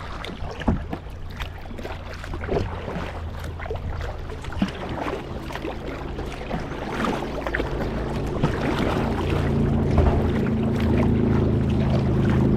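Kayak paddling on water: scattered splashes and drips from the paddle strokes. About two thirds of the way in, a steady low hum rises under them and keeps getting louder.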